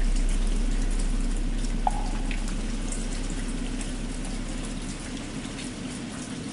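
Steady rain falling, under the deep hum of a struck bell slowly dying away. A single light knock sounds about two seconds in.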